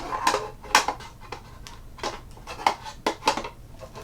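Parts of a coffee grinder being handled and fitted together: a series of irregular clicks and knocks of hard parts meeting.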